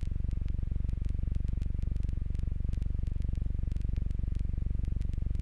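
Jabiru J120 light aircraft's four-cylinder engine and propeller droning steadily in flight: a low, rapidly pulsing hum.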